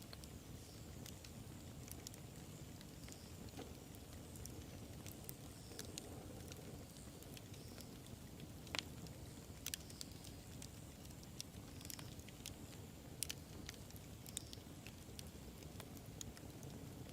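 Wood fire burning: a low steady rumble with scattered crackles and sharp pops, the loudest about nine, ten and thirteen seconds in.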